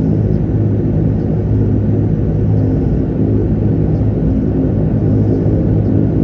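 De Havilland Canada Dash 8-300's twin Pratt & Whitney Canada PW123 turboprop engines running steadily: a deep even drone with a low propeller hum.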